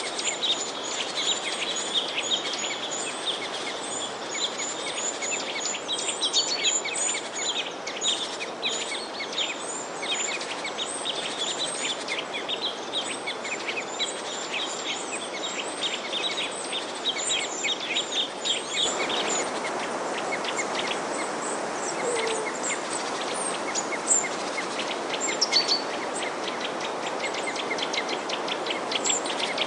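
A flock of small birds chirping and twittering busily over a steady background hiss. About two-thirds of the way through, the background noise changes abruptly while the chirping continues.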